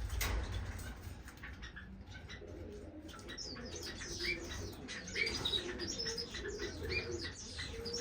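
Caged finches, Gouldian finches among them, chirping and calling. The short high chirps grow busier from about three seconds in, with lower steady notes mixed in.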